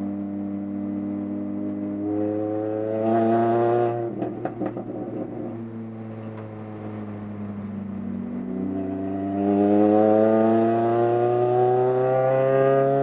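A first-generation Mini Cooper's four-cylinder engine heard from inside the stripped, caged cabin while lapping a track. The revs climb under acceleration, drop abruptly about four seconds in with a brief clatter, then climb steadily again through the second half and fall back right at the end.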